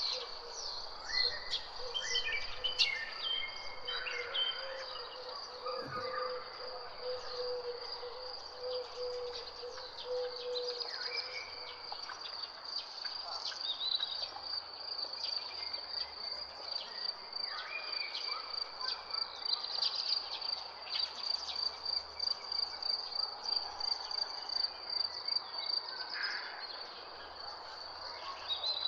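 Nature ambience: several birds chirping and calling over a steady, high-pitched insect trill like crickets. The trill becomes an even pulsing in the second half. A lower steady note runs for about the first ten seconds.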